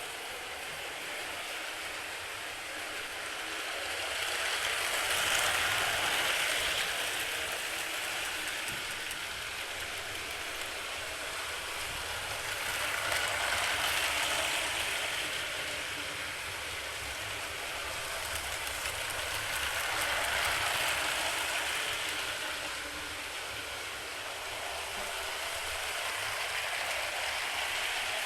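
Motorized LEGO trains running on plastic track, a steady rattle of wheels and motor that grows louder and fades again about every seven seconds as a train passes close by on each lap.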